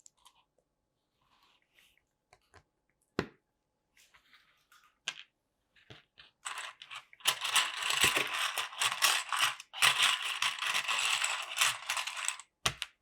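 Small plastic LEGO pieces clicking: a few scattered clicks, then from about halfway through several seconds of dense rattling as a handful of loose pieces is sifted together.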